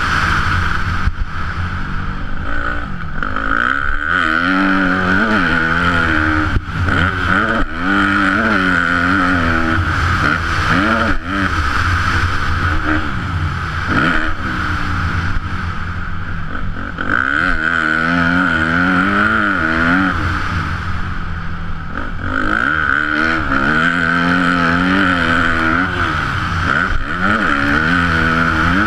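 Yamaha YZ250F four-stroke single-cylinder motocross engine revving up and down as the bike is ridden hard, its pitch rising and dropping again and again through throttle and gear changes, with a few sharp knocks.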